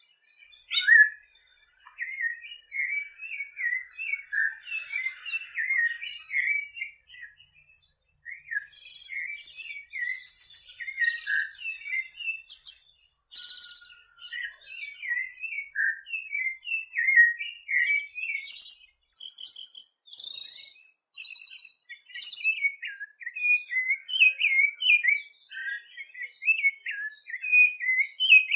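A songbird singing a long, rapid warbling song of short chirping notes, with stretches of high buzzing trills from about a third of the way in to past the middle.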